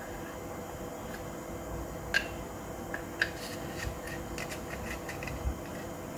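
Small metal parts of a Hi-Capa gel blaster pistol clicking and tapping as they are fitted by hand, with sharp clicks about two and three seconds in and a few lighter ticks later. A steady low hum runs underneath.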